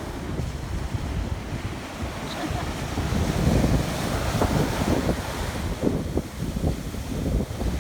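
Ocean surf washing on a beach, with wind buffeting the microphone in uneven low gusts.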